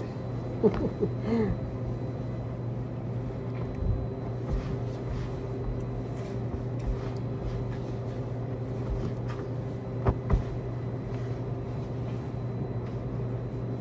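Steady hum of laundromat washing machines and dryers running, with two sharp knocks about ten seconds in.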